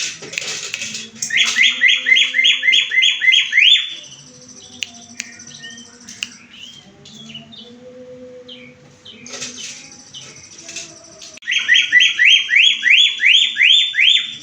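Songbird singing: two loud runs of quick, rising whistled notes, about four a second, one early and one near the end, with softer scattered chirps between them.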